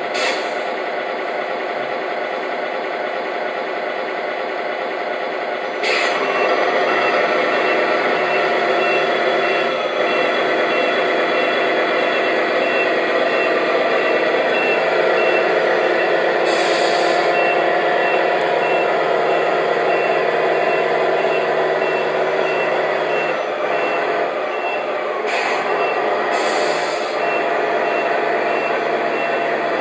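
Radio-controlled model truck running with a steady truck engine sound and a repeating reversing beeper that starts about a third of the way in. A few short hisses break in along the way.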